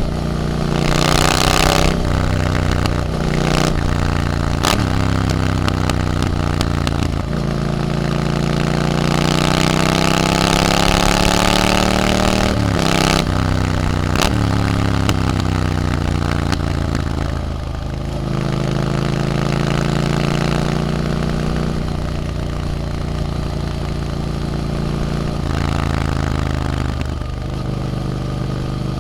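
Triumph Scrambler 900's parallel-twin engine through an Arrow exhaust, ridden on the road: the engine note climbs and falls several times as it accelerates and eases off, with a few brief breaks in the note.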